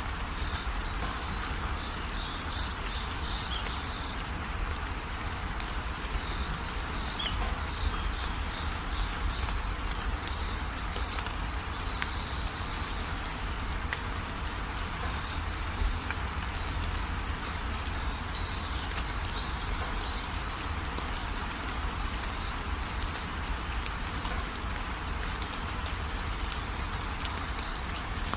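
Steady rain falling, with birds singing in spells of short, high, rapid chirps over it.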